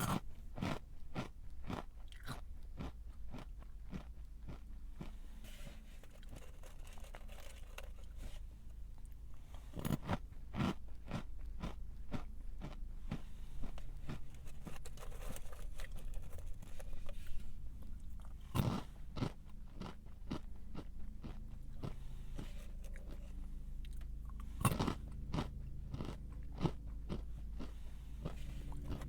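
A person chewing a crunchy snack close to the microphone: a steady run of crisp crunches, with a few louder bites about a third of the way in, two-thirds of the way in and near the end.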